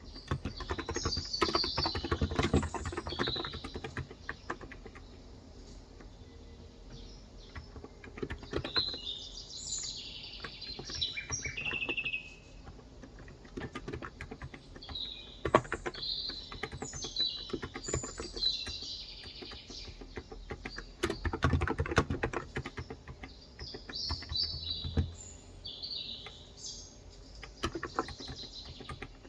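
Typing in bursts on a Cox Endeavor electro-capacitive (topre-style) 35 g tenkeyless keyboard: quick runs of soft keystrokes with pauses between them. Birds chirp in several short clusters of quick high notes.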